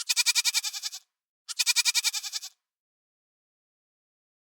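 Two bleats from a farm animal, each about a second long with a fast quavering pulse. The first comes at the start and the second about a second and a half in.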